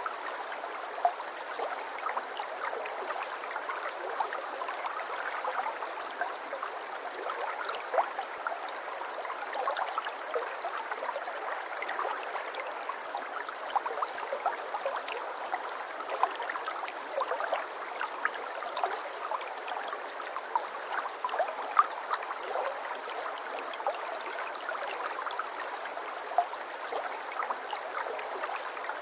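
A shallow brook babbling steadily, with a continuous rush of water and many small splashes and gurgles scattered through it.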